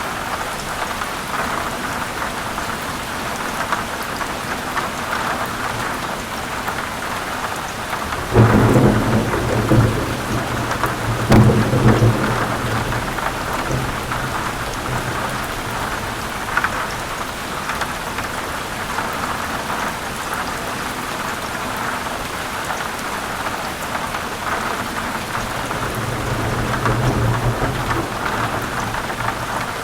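Heavy rain falling steadily, with thunder: a sudden low rumble about eight seconds in, a second crack and rumble around eleven seconds, and another low rumble building near the end.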